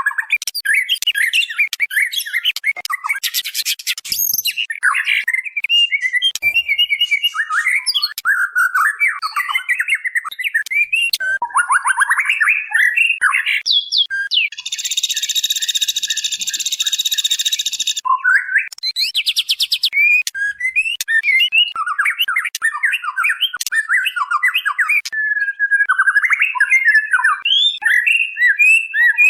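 White-rumped shama (murai batu) call, sold as a female calling a male and used as a lure: a fast, unbroken run of varied whistled and chattering notes. A harsh buzzing call lasts about three seconds in the middle, with shorter buzzy trills before and after it.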